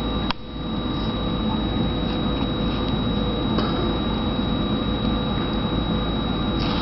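Steady room hum and hiss with a faint high whine, and a single sharp click shortly after the start; no parrot calls.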